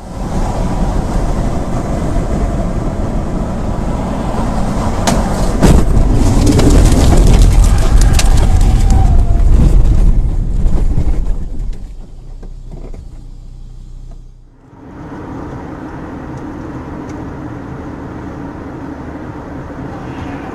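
Motor vehicle noise, engine and road rumble, swelling loudest in the middle with a few sharp knocks about five to six seconds in. It drops away and changes abruptly about fourteen seconds in, then continues as a steadier, quieter drone.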